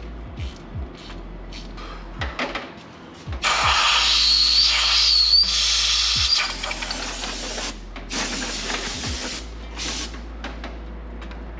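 Compressed-air blow gun hissing in bursts, one long and two shorter, with a faint whistle in the first, blowing metal swarf out of freshly tapped bolt holes in the cylinder head. A few light tool clicks come before the first burst.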